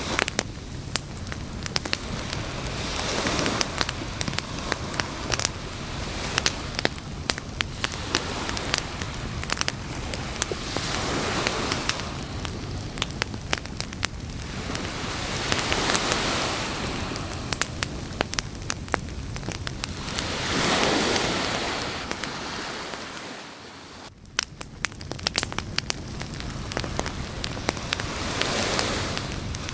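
Campfire crackling and popping steadily with many sharp snaps. Behind it, waves wash onto the shore in slow swells every five seconds or so.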